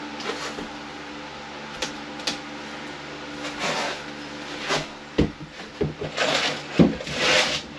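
Scattered knocks, clicks and short scraping sounds of drywall being handled and shifted into place, with two heavier knocks in the second half.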